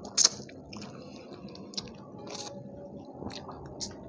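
Close-up mouth sounds of eating rice and curry by hand: chewing with short wet clicks scattered through, the loudest just after the start.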